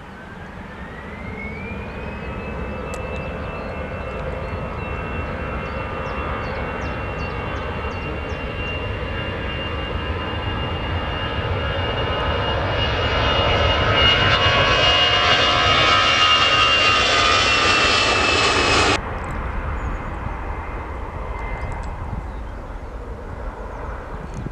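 Jet airliner's engines with a high whine that rises in pitch over the first couple of seconds and then holds, the noise growing steadily louder as the aircraft nears. It cuts off suddenly about 19 seconds in, leaving a fainter low rumble.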